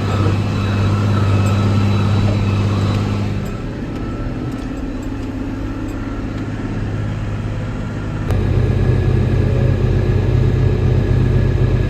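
John Deere tractor's diesel engine running under load. Its note eases off about three and a half seconds in, then comes back louder and deeper about eight seconds in as the pan starts loading.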